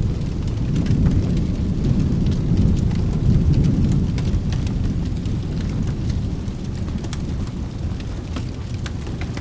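A low rumble of thunder rolls in, swelling over the first few seconds and then slowly fading. Sparse sharp crackles of a wood fire and a soft wash of rain run underneath.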